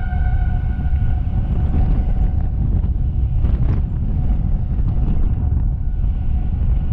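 Steady low rumbling noise, heavy in the bass, with a steady high tone and its overtones that fades out about a second in and returns faintly near the end.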